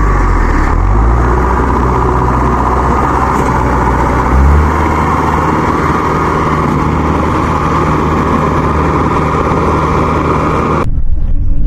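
Farm machinery engine working hard during the tow of a mired rice harvester, its pitch rising about a second in and changing again about four and a half seconds in as it is revved. The engine sound cuts off suddenly near the end.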